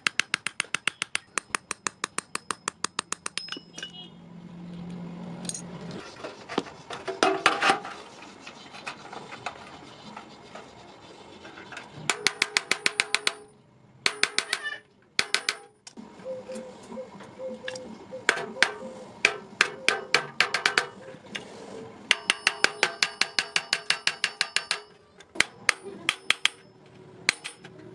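Hammer striking iron on an anvil in quick runs of about six blows a second, each blow ringing, with short pauses between the runs.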